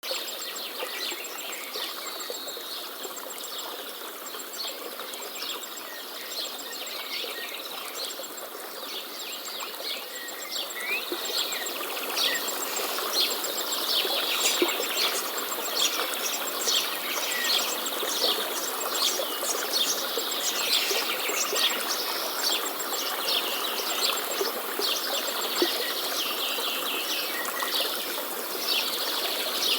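A chorus of birds chirping and trilling over a steady background hiss, growing busier and louder from about eleven seconds in.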